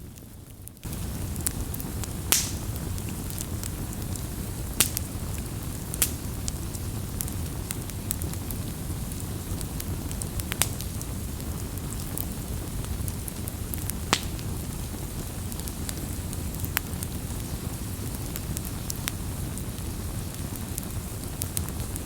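Wood campfire crackling: a steady low rush of flame with sharp pops and snaps every second or few. It is quieter for the first second, then steps up in level.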